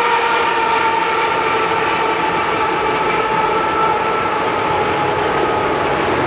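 Freight train passing: Union Pacific diesel locomotives followed by autorack cars. A steady whine from the locomotives drops slightly in pitch and fades about two-thirds of the way through as they go by, over a continuous rumble of the rolling train.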